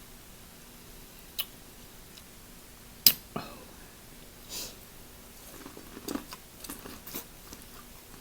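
A person eating seafood. There is a sharp knock about three seconds in, then a run of small wet chewing and clicking sounds over the last few seconds.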